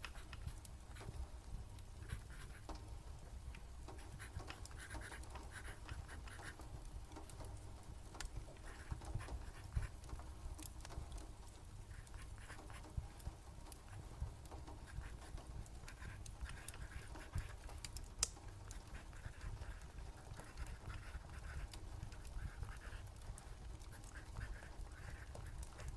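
Layered night ambience of soft rain patter and a crackling fire with a few sharper pops, over a low steady rumble.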